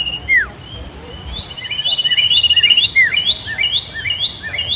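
Birds singing: a fast trill, a whistle that falls in pitch, then a run of quick, repeated rising chirps, about two to three a second, mixed with lower chirps and another falling whistle.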